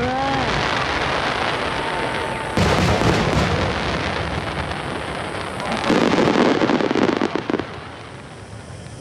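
Fireworks display: aerial shells bursting in loud booms with crackling between them. Fresh bursts come about two and a half seconds in and again about six seconds in.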